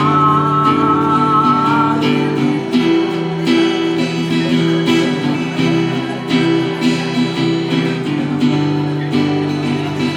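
Acoustic guitar being strummed and picked live, an instrumental passage of chords with a steady rhythm.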